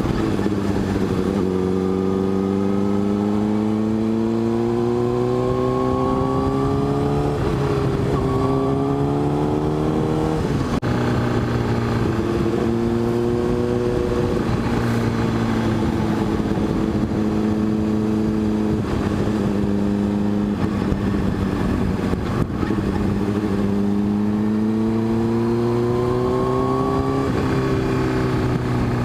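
Motorcycle engine under way, its note rising as it accelerates and dropping abruptly at each upshift: it climbs in the first few seconds, shifts twice, holds a steady cruise in the middle, then climbs again and shifts near the end.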